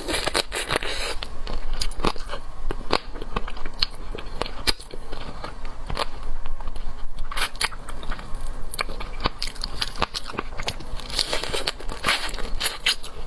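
Close-miked eating sounds of a mouthful of seafood being bitten and chewed, with many irregular sharp wet clicks and crunches.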